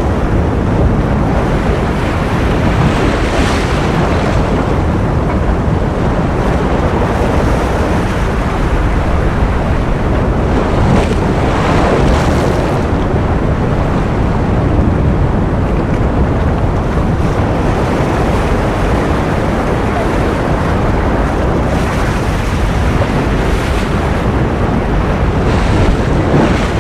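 Continuous ocean surf noise: a dense, steady rushing hiss, heaviest in the low end, with a wave swelling brighter three times.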